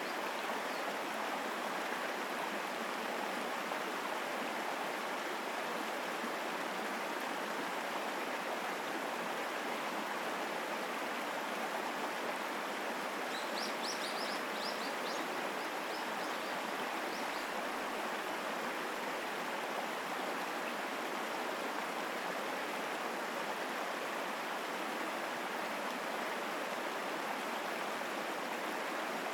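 Mountain stream rushing strongly and steadily over rocks, a continuous even wash of water. A few brief high chirps sound about halfway through.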